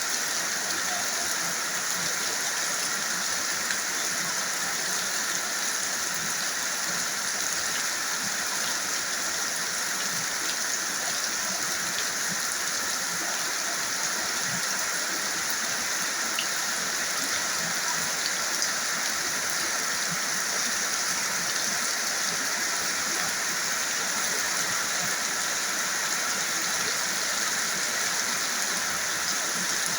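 Heavy tropical rain pouring steadily, a dense even hiss of rain falling on surfaces.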